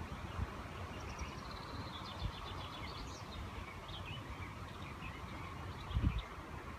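A songbird singing outdoors: a rapid run of high notes sliding downward, then scattered chirps. Underneath is a steady background hiss with low gusty rumbles, the strongest about six seconds in.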